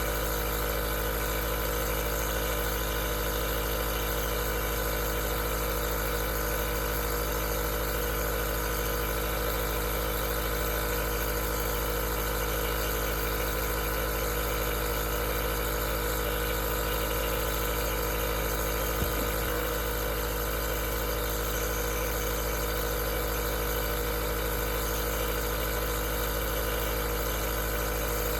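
Aerosol nebulizer running with a steady, unchanging mechanical hum and hiss. A faint click comes about two-thirds of the way through.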